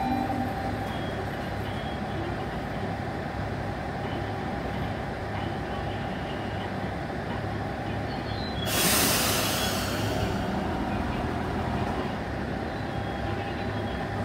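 Aizu Railway diesel railcar idling at the platform with a steady low hum. About nine seconds in there is a sharp hiss of compressed air from the railcar's pneumatics, fading over a second or so.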